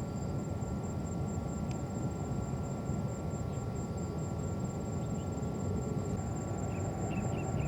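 Steady low rumble of distant jet aircraft around the airport, with a thin steady high whine over it and a few faint chirps near the end.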